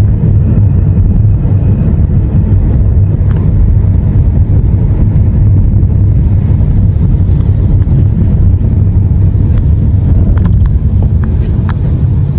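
Steady low rumble of a moving road vehicle, with a few small clicks near the end.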